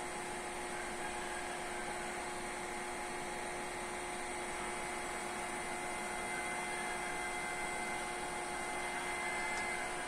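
Steady machine hum with a few held tones over an even hiss.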